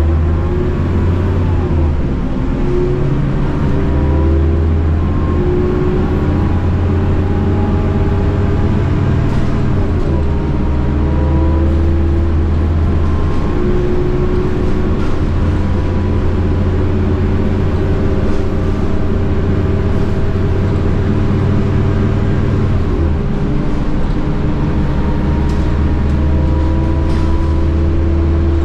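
Scania K230UB bus under way: its DC9 five-cylinder diesel engine running under load through a ZF Ecomat 6HP502C automatic gearbox, with a steady whining tone above the engine. The engine note breaks and changes a few times, at gear changes.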